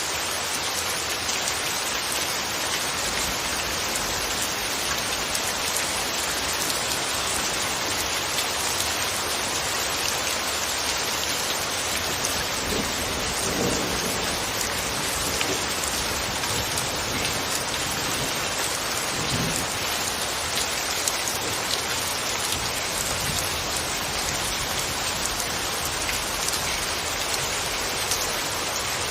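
Steady, even rain falling, with a brief low rumble about halfway through and a shorter one a few seconds later.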